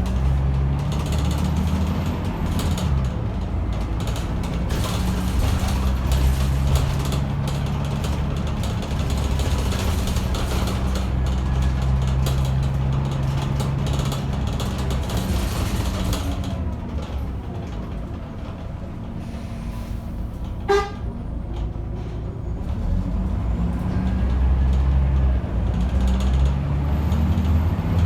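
Scania L94UB bus's diesel engine heard from inside the cabin, running under load with its pitch rising and dropping as the bus moves and shifts, easing to a quieter lull around the middle before pulling again near the end. A single short tone sounds briefly about two-thirds of the way through.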